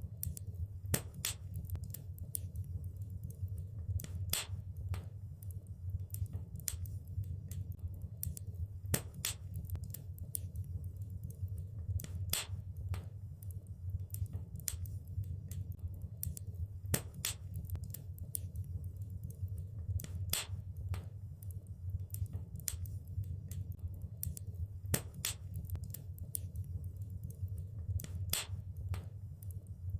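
Wood fire burning in a fireplace: irregular sharp crackles and pops, a few louder snaps among many small ticks, over a steady low rumble of the flames.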